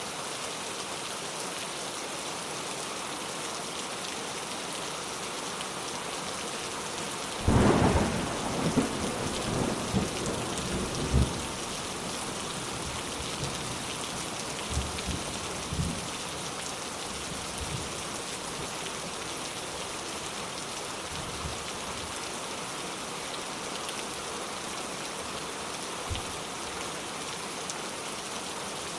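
Steady rainfall, with a thunderclap about seven and a half seconds in that rumbles on for a few seconds, then fainter rumbles of thunder later.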